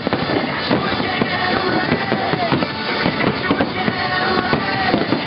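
Aerial fireworks shells bursting and crackling in quick succession, with music playing along underneath.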